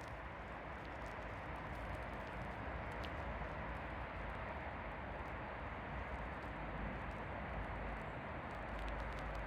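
Steady outdoor background noise: an even hiss with a low rumble underneath and a few faint, scattered ticks.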